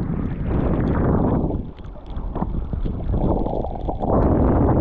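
Edges scraping and hissing over snow during a run downhill, in three swells each a second or so long, over steady wind rumble on the microphone.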